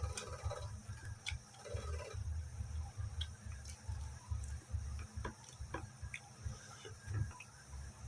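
Close-miked chewing of soft boiled saba banana: irregular soft mouth thumps with scattered small wet clicks and smacks.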